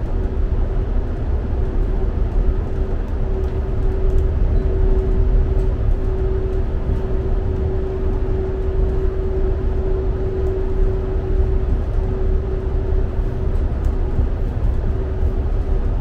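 Inside a diesel multiple-unit passenger train running at speed: a steady low rumble of wheels on rail and the underfloor engine, with a steady mid-pitched whine over it.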